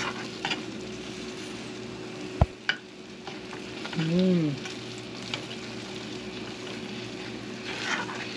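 Thick mango sour frying and bubbling in a small pot while a spoon stirs it, scraping through the mixture, with a few light clicks and one sharp knock of the spoon against the pot about two and a half seconds in.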